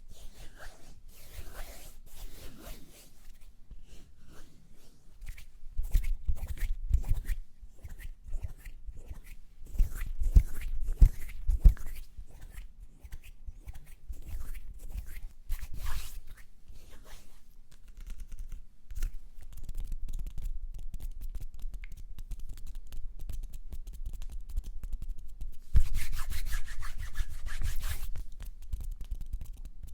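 Close-up ASMR hand and mouth sounds: hands rubbing, with many small clicks and crackles. A few louder low thumps come about a quarter of the way in, around a third of the way in, and near the end.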